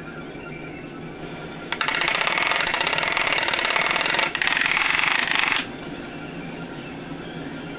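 A power tool runs with a rapid, rattling pulse for about four seconds, with a brief break partway through, over a steady background hum.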